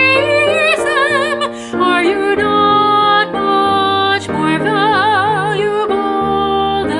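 A choral song with a female voice singing held notes with vibrato over keyboard chords and a bass line.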